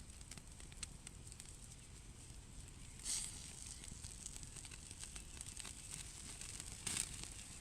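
Quiet outdoor ambience with scattered small crackles and ticks, and two brief rustles: one about three seconds in, one near the end.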